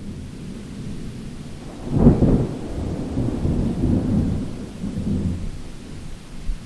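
Thunder over steady rain: a low rumble builds, breaks into a loud clap about two seconds in, then rolls on and fades.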